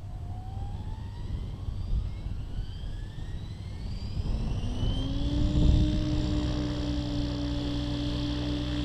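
Align T-Rex 700 Pro RC helicopter spooling up: a rising whine that levels off about five seconds in into a steady hum as the rotor head reaches speed. Wind buffets the microphone throughout.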